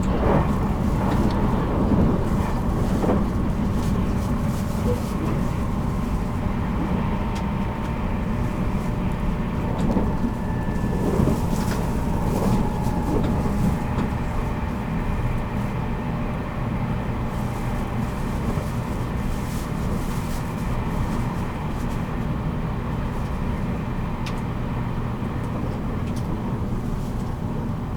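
Running sound inside a JR Kyushu 783 series electric train's motor car (MoHa 783), travelling at speed. A steady rumble of wheels on rail carries a faint motor hum, with a few sharp clicks in the first half.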